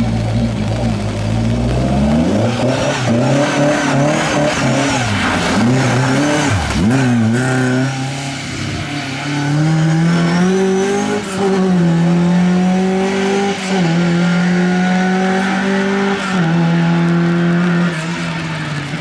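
LADA 2107 rally car's four-cylinder engine revving hard, its pitch swinging up and down quickly as the throttle is worked through tight turns. It then accelerates away, the pitch climbing through three upshifts that each drop it suddenly, and grows a little fainter near the end.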